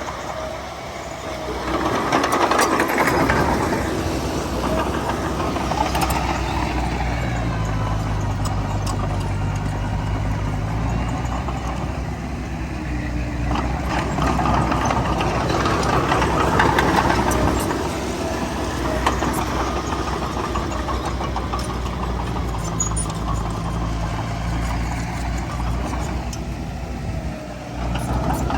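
Heavy diesel engines of earthmoving machines, a bulldozer and dump trucks, running steadily. The sound swells louder twice, about two seconds in and again around the middle, as an engine works harder.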